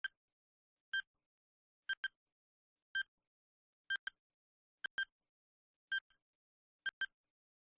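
Countdown timer sound effect: a clock ticking about once a second, some ticks coming as quick double clicks.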